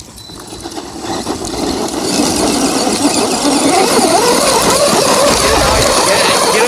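Electric RC trucks, a Redcat Everest-10 and a Volcano EPX Pro, whining under load in a tug-of-war pull, their pitch wavering, with tires spinning on gravelly dirt. The sound builds over the first couple of seconds and then runs steady.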